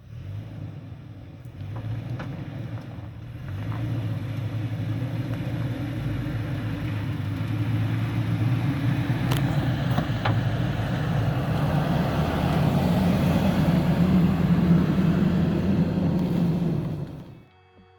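2021 Toyota Tacoma TRD Off Road's V6 engine pulling under load through sand, getting louder in steps and rising in pitch as the truck keeps its momentum, with a couple of sharp clicks about halfway through. The sound cuts off suddenly shortly before the end.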